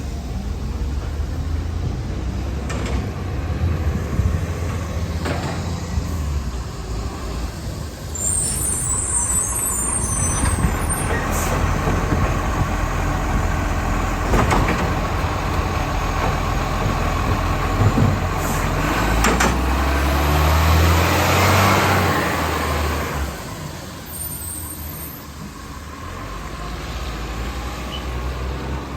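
Garbage truck working a collection run: its diesel engine runs steadily with a few sharp knocks in the middle, then the engine swells for a couple of seconds before easing off.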